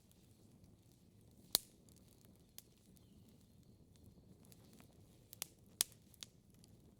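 Log fire crackling: scattered sharp pops and snaps over a low, soft rumble of burning wood. The loudest pop comes about a second and a half in, with a small cluster of pops near the end.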